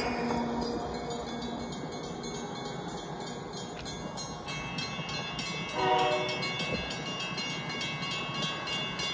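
Train running along the track with a steady rushing noise, and one short horn blast about six seconds in.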